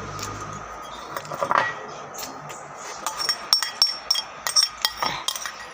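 Cutlery clinking against a plate or bowl while eating: a few scattered clinks, then a quick run of light, ringing clinks in the second half.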